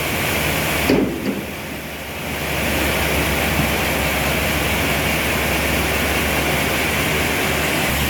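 Sawmill machinery running steadily with a low hum and a hissing noise. About a second in there is a knock, and the noise briefly drops before it builds back to an even level.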